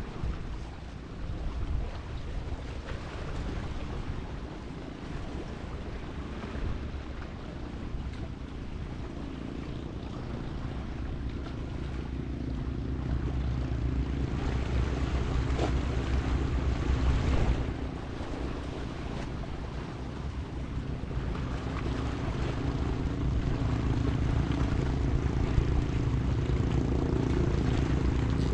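Wind and surf, with a steady engine drone that comes in and grows louder through the second half.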